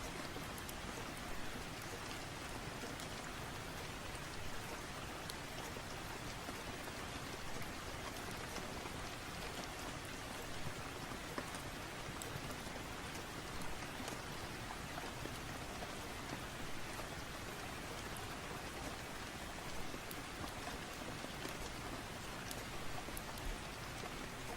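Steady rain ambience, an even hiss of falling rain with scattered light crackles of a fireplace mixed in.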